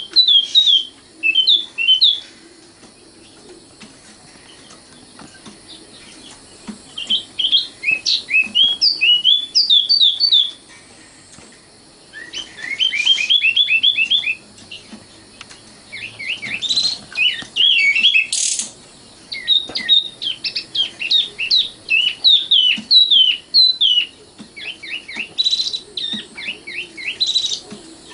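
Common nightingale singing: bursts of rapid, repeated chirps and whistled notes, with pauses of a few seconds between phrases.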